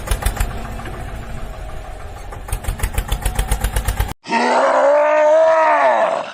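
A tractor engine sound effect chugging in quick, even beats, cutting off suddenly after about four seconds. Then comes a long groaning voice whose pitch rises and then falls.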